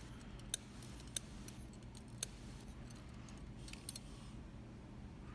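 Small metal lock parts, the pins and springs of a disassembled Mul-T-Lock cylinder, clicking lightly as they are handled and set down: several separate sharp clicks over a low steady hum.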